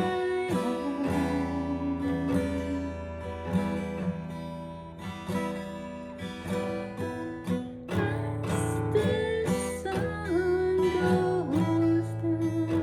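Acoustic guitar strummed and plucked, with a woman's voice singing a soft, slow song.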